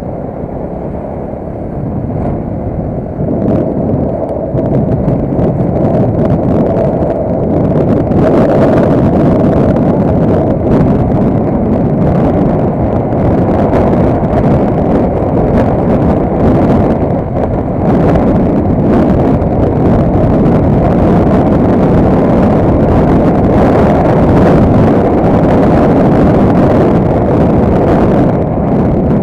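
A vehicle being driven, with engine and running noise plus wind on the microphone, getting louder over the first several seconds as it picks up speed and then holding steady. Frequent irregular sharp clicks or knocks run through the noise from about a third of the way in.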